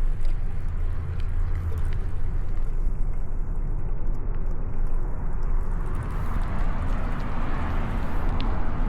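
Riding noise from a bicycle ride on city streets: a steady low rumble with road and traffic noise, swelling a little near the end.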